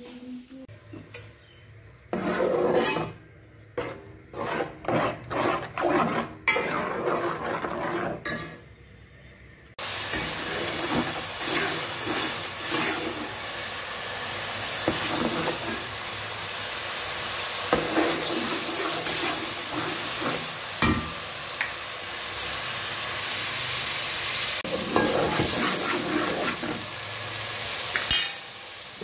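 Chopped onion frying in hot oil in an aluminium pot, a steady sizzle from about ten seconds in, with a metal ladle stirring and scraping in the pot. Before that, a run of short, irregular scrapes and knocks.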